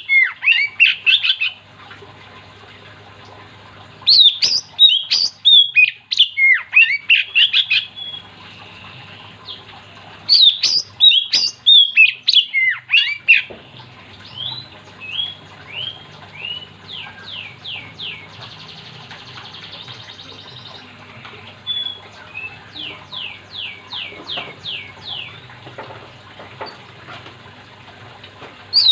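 Oriental magpie-robin in full song: loud bursts of rapid, varied whistles and chirps broken by short pauses, giving way to a run of softer, evenly repeated notes in the second half. A steady low hum runs underneath.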